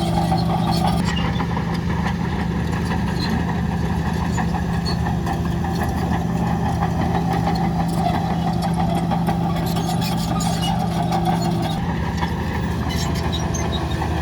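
Heavy diesel engine of earth-moving machinery, a bulldozer or dump truck, running steadily. Its tone shifts about a second in and again near the end.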